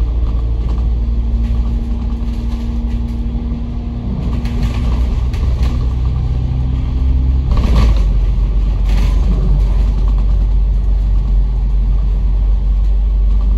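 Double-decker bus heard from inside the cabin, its engine running with a low rumble and a steady whine that fades out about seven and a half seconds in. A sharp knock or rattle comes just after, with a lighter one a second later.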